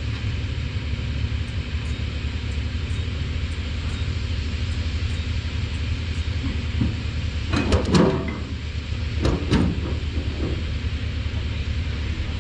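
Engine idling with a steady low rumble, broken by a few sharp knocks and clanks about seven and a half to eight seconds in and again at about nine and a half seconds.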